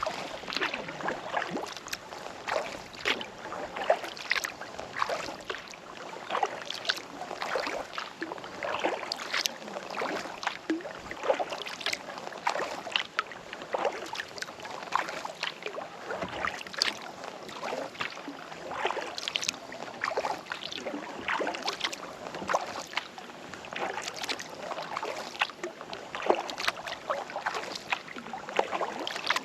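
Kayak paddle strokes: the blades dipping and pulling through the water stroke after stroke, with splashing and dripping water.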